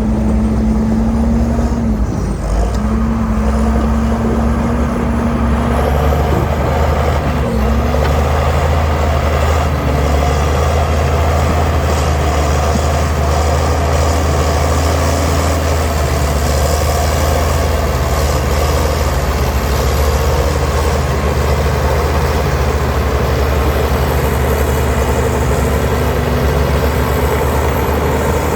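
Heavy diesel earthmoving machinery running steadily under load, a continuous low engine drone. A steady whine sits over it in the opening seconds, dipping briefly about two seconds in and fading out around six seconds in.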